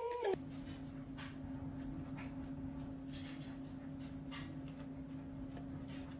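A low, steady hum with a few faint, soft clicks, the tail of a howl dying away at the very start.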